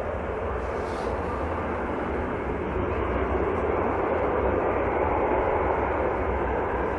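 Turboprop airliner engines running with a steady rushing drone and low rumble, growing a little louder midway.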